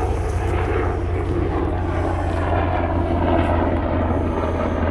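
A helicopter flying out of sight, a steady low drone of rotor and engine.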